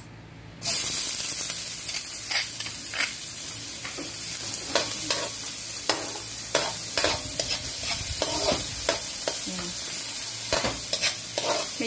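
Chopped onion hitting hot oil in an aluminium wok and sizzling steadily, starting suddenly under a second in. A metal spatula scrapes and clicks against the pan as the onion is stirred.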